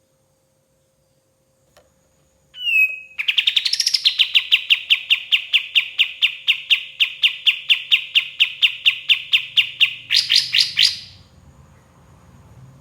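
Kapas tembak songbird singing: a short sliding note, then a long, fast run of identical sharp chips, about four to five a second, ending in a quicker, higher flourish.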